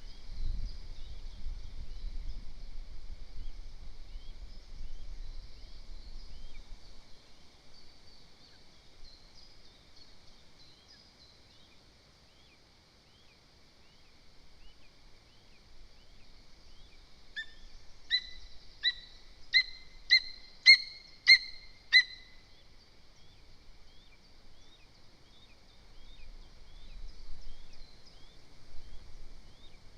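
Lesser spotted eagle giving a run of about eight short, sharp high calls, roughly two a second, growing louder, about halfway through. Small songbirds chirp faintly in the background, with low wind rumble on the microphone at the start and near the end.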